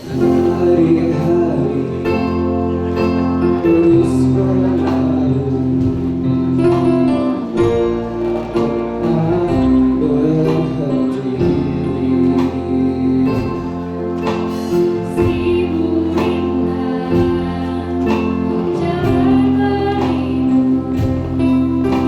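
A choir singing a song in sustained, held chords, accompanied by plucked and strummed guitar.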